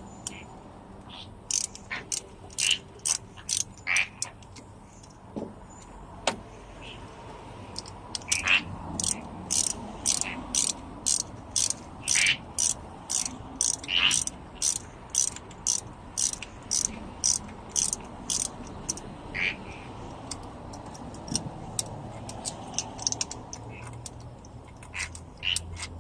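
Ratchet wrench clicking in runs of short strokes, about two clicks a second with pauses between runs, while the exhaust manifold nuts are worked loose.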